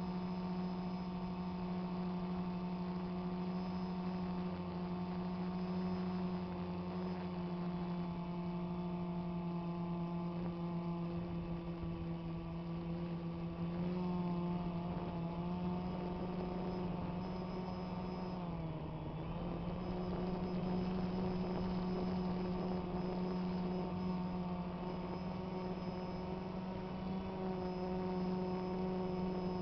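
DJI Phantom quadcopter's motors and propellers humming steadily in flight. The pitch dips briefly and recovers about two-thirds of the way through.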